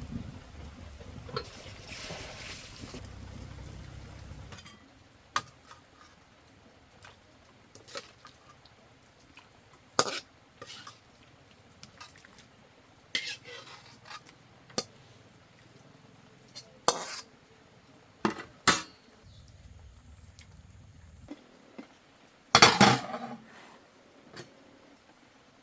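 Scattered clinks and knocks of objects being handled, like dishes and utensils, with a low rumble for the first few seconds and a louder clatter near the end.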